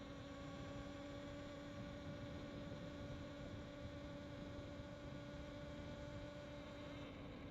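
Faint steady hum: a low tone with a second tone at twice its pitch, over a rough low rustle.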